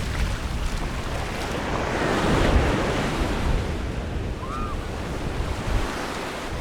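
Sea waves washing onto the beach, one wave swelling loudest about two seconds in, with wind buffeting the microphone as a low rumble.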